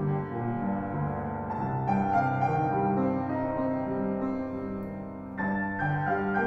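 Transverse flute and piano playing classical chamber music: long held notes over piano chords, with new notes struck about two seconds in and again near the end.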